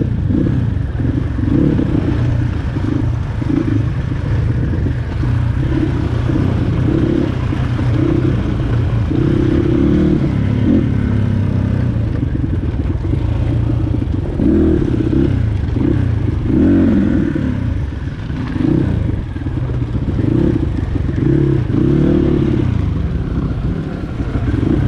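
Dirt bike engine running under way, the throttle opened and closed again and again so the revs rise and fall every second or so, with rattling from the bike over rough ground.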